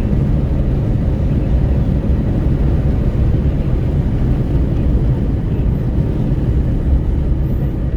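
Wind buffeting through an open window of a Renault Kwid at highway speed, a loud, steady low rumble mixed with road noise.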